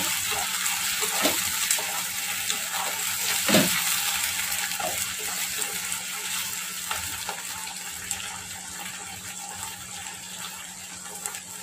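Onion and capsicum with soy and chili sauces sizzling in a nonstick kadai while being stirred with a wooden spatula. The steady hiss slowly dies down, and the spatula knocks softly against the pan now and then.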